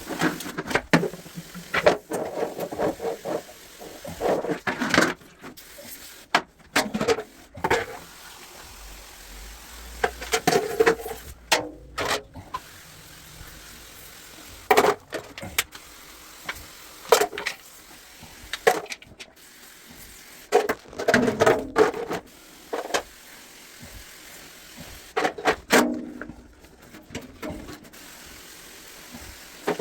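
Irregular knocks, clicks and clattering of parts and tools handled while a top-loading washing machine is taken apart, sped up threefold.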